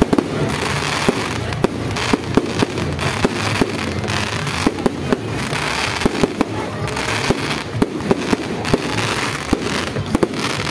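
Fireworks display: a continuous barrage of irregular sharp bangs and crackling shells, many bursts a second with no pause.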